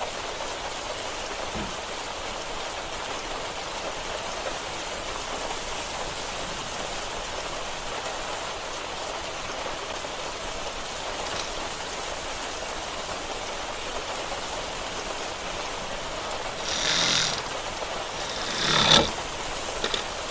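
Steady rain falling, an even hiss, with two brief louder noises near the end.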